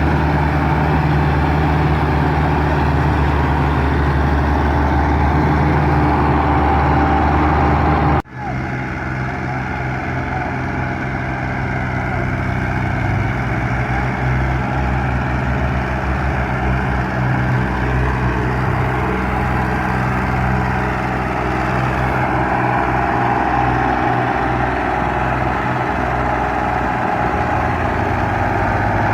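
Tractor diesel engine running, loud and steady. About eight seconds in, the sound breaks off for an instant and comes back with a less even engine note.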